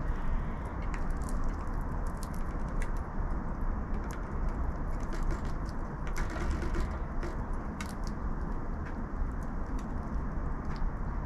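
Scattered sharp clicks and small rattles of birds feeding at a seed feeder, thickest a little past the middle, over a steady low rumble of distant traffic.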